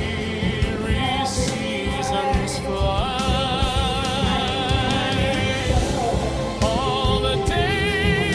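AI-arranged song: a voice holds long notes with a wide vibrato over a backing with a steady beat, sliding up into a new held note about three seconds in and again near the end.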